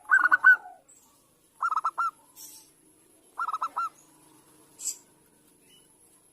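Zebra dove (perkutut), given as a female calling a male, cooing in three short phrases of quick, clipped notes about a second and a half apart, used as a lure call to get other zebra doves to sing. A brief sharp click near the end.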